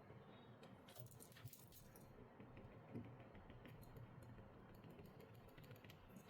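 Faint, scattered light clicks and taps of small tools and parts being handled during phone repair work, over a low hiss.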